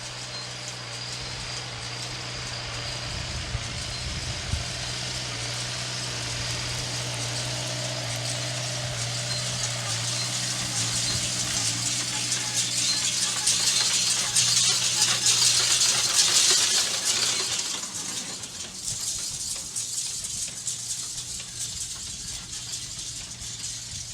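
Tractor engine running steadily while a straw baler's mechanism rattles; the clatter builds to its loudest past the middle and then drops away.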